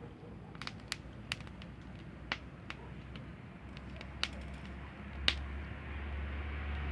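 Wood campfire crackling, with irregular sharp pops of burning wood. A low steady rumble grows louder from about five seconds in.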